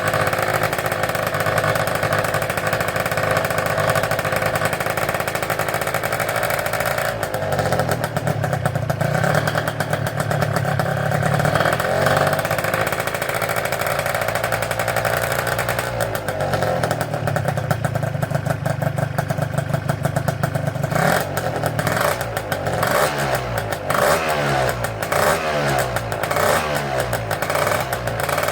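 Tuned 183 cc two-stroke Gilera Runner scooter engine running, its pitch shifting several times, then revved in quick repeated blips, about one every second, near the end.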